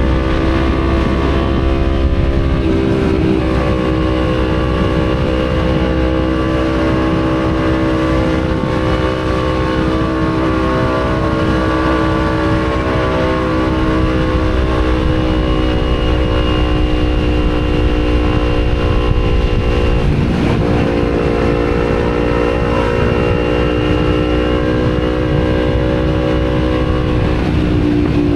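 Kawasaki Z250 parallel-twin engine running through an aftermarket Akrapovic exhaust, heard from the rider's seat while cruising at a steady engine speed. The pitch dips briefly about three seconds in, again around twenty seconds, and near the end. Wind rumble sits low on the action-camera microphone.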